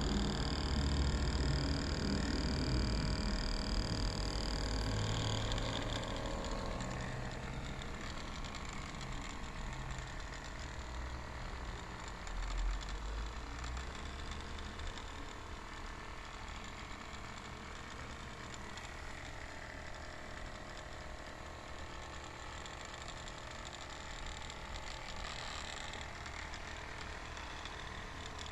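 Small electric motor of a homemade toy helicopter running steadily and whirring, its rotor spinning. It is loudest at first, with a low rumble, then gradually gets quieter.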